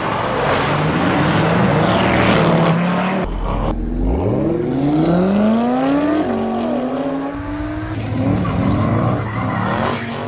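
Audi performance car engine accelerating hard, its pitch climbing steeply through the revs. It drops briefly at a gear change about six seconds in, then climbs again. The sound changes abruptly about three seconds in.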